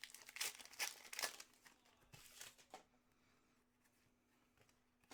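Foil trading-card pack wrappers crinkling and tearing as packs are opened, in a run of sharp bursts over the first three seconds, then quiet apart from a faint steady hum.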